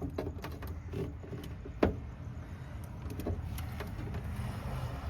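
Light clicks and knocks from handling battery cables and tools, with one sharper click about two seconds in, over a steady low hum.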